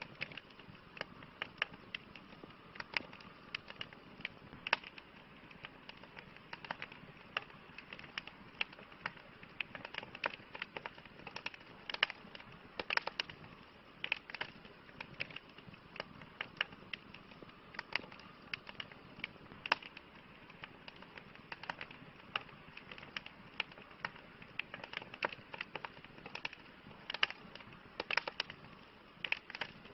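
Campfire burning, with irregular sharp crackles and pops from the burning wood over a soft steady hiss.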